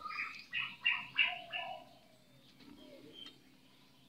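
Birds calling: a quick run of short chirps and a lower rounded call in the first two seconds, then quiet background.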